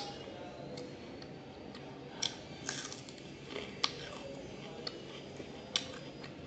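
Close-up chewing of a crumb-coated fried fish fillet (Kolkata-style fish fry), with about half a dozen short, sharp crunches and mouth clicks spread through.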